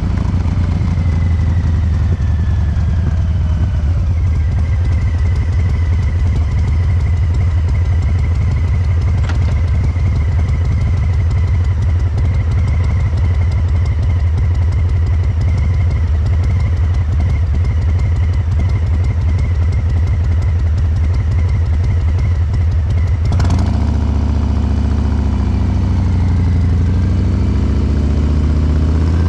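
2022 Harley-Davidson Breakout 114's Milwaukee-Eight V-twin through Cobra Neighbor Hater slip-on mufflers, running at low revs while riding, its injection tuned for a loping three-beat rhythm. The pitch falls in the first few seconds, holds steady, then dips and climbs again near the end.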